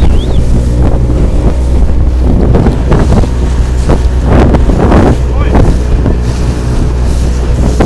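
Motorboat engine running steadily under way, with heavy wind noise on the microphone and water splashing against the hull several times.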